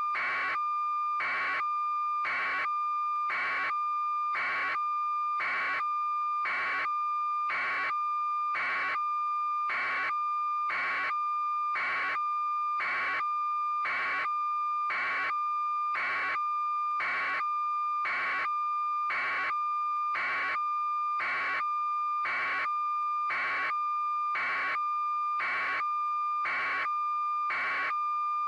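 An electronic beeping signal: a buzzing beep repeating steadily about once a second over a continuous high tone.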